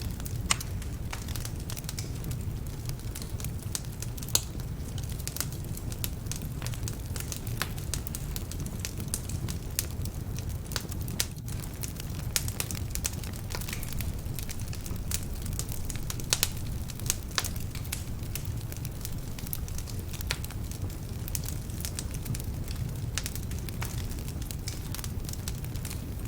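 Wood fire burning in a fireplace: a steady low rumble of flames with irregular crackles and sharp pops from the logs, some of them damp.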